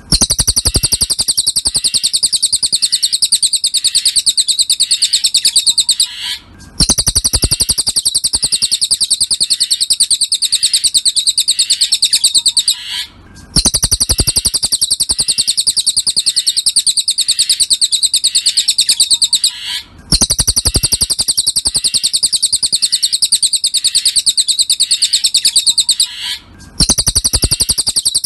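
Cililin song: a loud, rapid, even trill of high chips, sung in runs of about six seconds with a brief break between runs, four times over.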